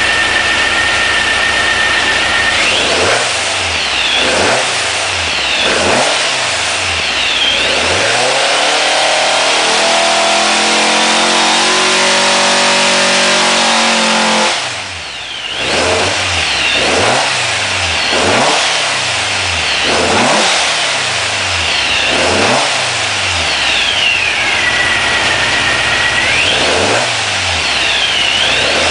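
A 2275cc, 168 hp street engine being revved in free rev. After a steady couple of seconds it gives about a dozen quick throttle blips, each rising and falling sharply, with one longer hold at high revs about a third of the way in.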